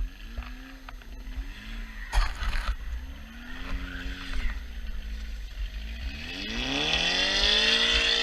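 Car engine revving up and down several times with its wheels spinning, the car trying to get free of deep snow. The last rev, about six seconds in, is the longest and loudest, rising and falling again with a hiss of spinning tyres.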